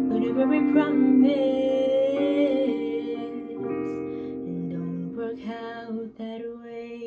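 Closing bars of a song: guitar accompaniment with a long held sung note, the music dying away to its end.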